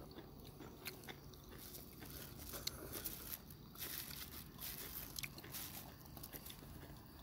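Faint, irregular crunching and small clicks of someone eating and chewing close to the microphone.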